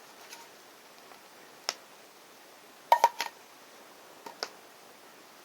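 A few short sharp clicks against a faint steady hiss: one about a second and a half in, a quick cluster of three around the middle, and two softer ones near the end.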